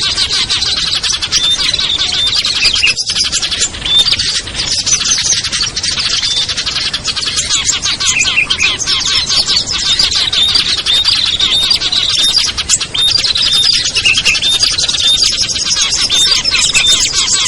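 Dense, unbroken chorus of many small songbirds chirping and twittering over one another at once, as in a mixed small-bird lure recording (prinias, bulbuls and similar).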